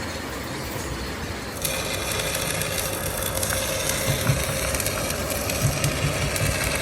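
Workshop machinery running steadily, getting louder about one and a half seconds in, with a few dull knocks near the middle.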